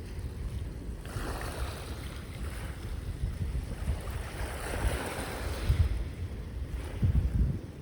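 Ocean waves washing on the shore, with swells of surf hiss about a second in and again around five seconds, and wind buffeting the microphone with a gusty low rumble.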